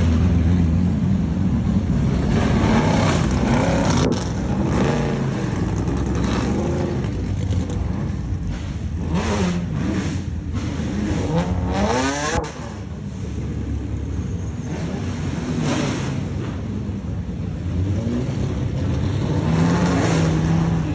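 Race car engines running loudly and revving as the cars accelerate away, with the pitch rising several times as they go up through the revs.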